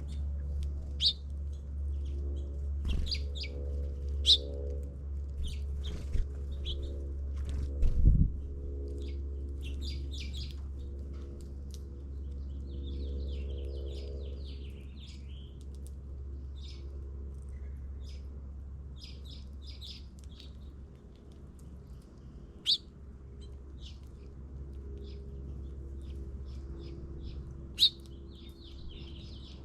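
Small wild birds chirping: many short, high chirps scattered throughout, some in quick twittering runs, over a steady low rumble. A brief low thump comes about eight seconds in.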